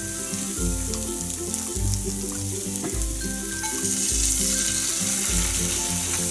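Meat sizzling steadily on a round tabletop electric grill pan as it is turned with chopsticks. Music with a low beat about once a second runs underneath.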